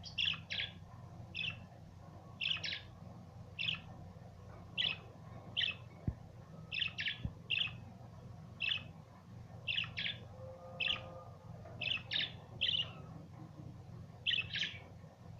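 Budgerigars chirping: short, sharp chirps repeated irregularly, about one or two a second, over a low steady hum.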